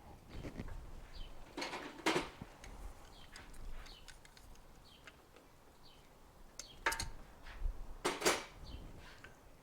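Metal clinks and clunks of tools and parts being handled, in two clusters, about two seconds in and again near the end, with faint bird chirps now and then.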